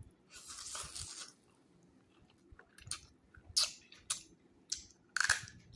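Close-miked eating of instant noodles with bamboo shoots: a noisy mouthful about a second long near the start, then scattered wet chewing smacks and crunches.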